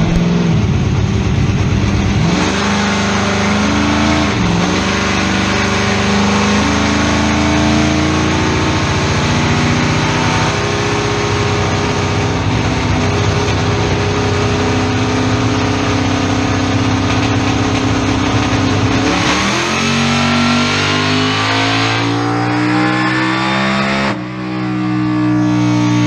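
Car engine run at full throttle on a chassis dynamometer, loud, its revs climbing steadily for a long pull. Near the end the pitch drops and climbs quickly again, then falls away as it comes off the throttle.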